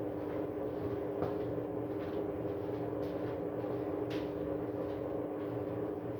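Arctic washing machine running in service mode during a suds lock, a steady mechanical hum with low rumble, with a couple of faint knocks about a second in and again about four seconds in. These are the noises the owner calls bad.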